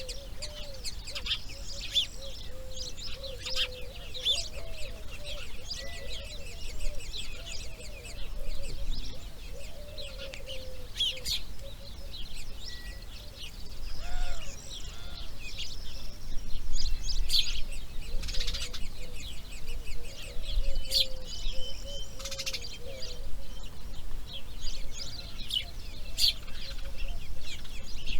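Outdoor bird chorus: many small birds chirping and trilling, with a lower wavering call repeated again and again underneath, over a steady low rumble.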